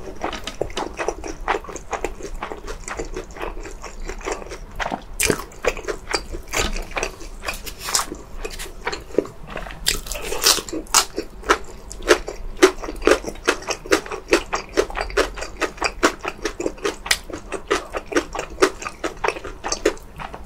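Close-miked chewing and biting of food, with crisp crunches in a quick, regular rhythm of a few chews a second.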